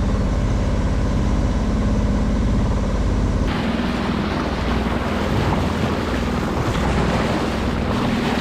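A sailboat's engine runs steadily while motoring. About three and a half seconds in, the sound changes abruptly to a louder rush of wind and water over the hull, with the engine hum underneath.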